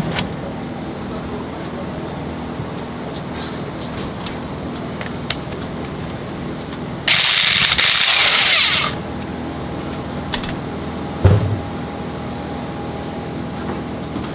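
A power tool runs in one burst of about two seconds in the middle, over a steady workshop hum, followed by a single knock a couple of seconds later.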